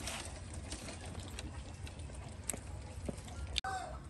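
A few soft crunches and clicks from a crispy fried chicken drumstick being bitten and chewed, over a low steady outdoor rumble, with a sharp click about three and a half seconds in.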